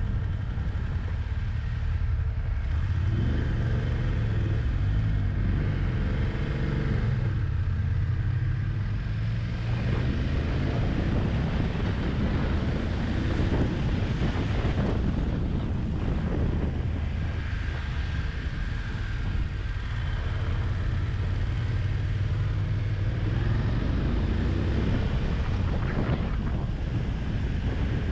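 Motorcycle engine running on the move, its note rising and falling with the throttle, under steady wind rushing over the microphone.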